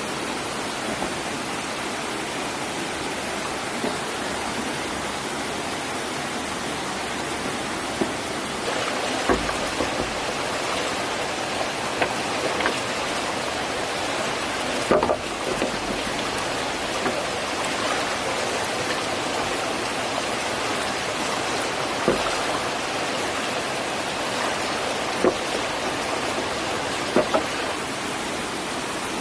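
Steady rushing of a flowing stream, with about ten short, sharp knocks scattered irregularly through it.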